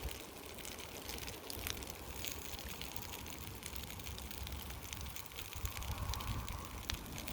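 Campfire crackling faintly: scattered sharp pops and ticks over a steady low hiss.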